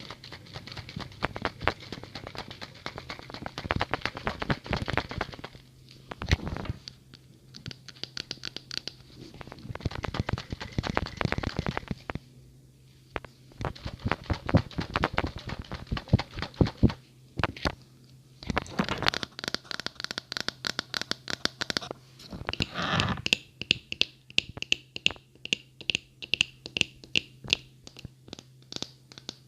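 ASMR tapping and scratching on objects close to the microphone: bursts of quick taps and scratches with short pauses between them. Near the end comes a steady series of taps, two or three a second, each ringing briefly with a high tone, as on a hard, resonant object.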